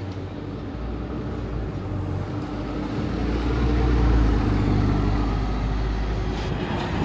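A vehicle running, a low rumble with a steady hum that grows louder over the first few seconds, then holds.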